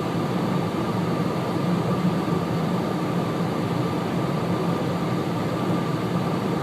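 Steady road and engine noise inside a car cabin while driving at highway speed on a snowy highway: an even rushing hiss over a low hum, with a faint steady whine.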